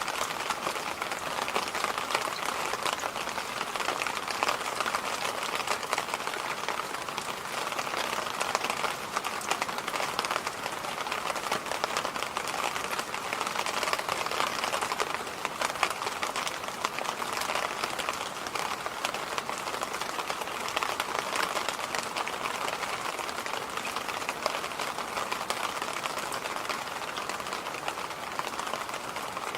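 Electric fan running steadily: an even rush of air noise, strongest in the middle of the range, with a fine, rapid crackle running through it.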